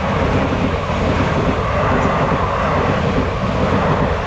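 The Uzhavan Express passing close by at speed: a loud, steady rush of its wheels and coaches.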